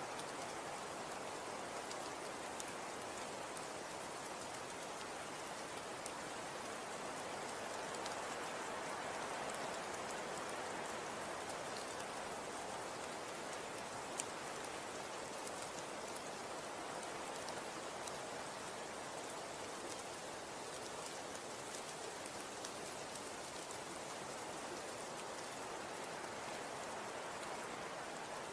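Snow falling and pattering on surfaces: a steady soft hiss with faint scattered ticks.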